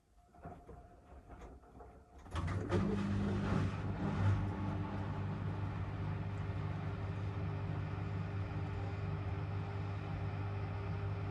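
Miele W1 washing machine starting up: a few light clicks, then about two seconds in a steady motor hum sets in and runs on, with some knocks as it begins.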